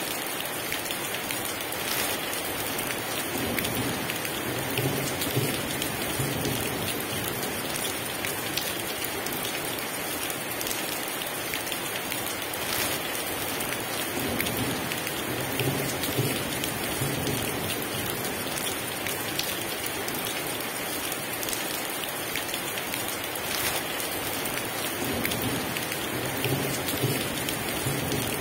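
Heavy rain pouring steadily, a dense even hiss. Low rumbles of thunder roll in three times beneath it.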